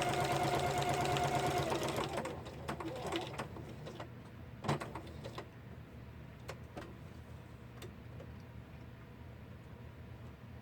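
Sewing machine stitching at speed, stopping about two seconds in. After that come a few light clicks from handling the machine and fabric, with one sharper click near the middle, over a faint hum.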